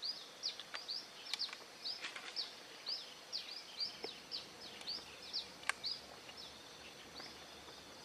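A small bird repeating a short, high, sharp chirp, about three to four times a second, thinning out near the end. A few faint clicks are heard among the chirps.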